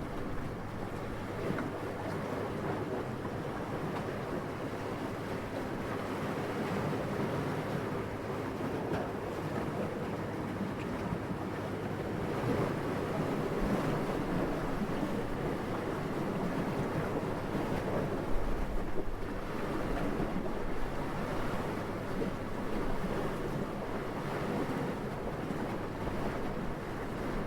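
Wind blowing steadily and softly, with gentle swells and one brief louder gust a little past halfway.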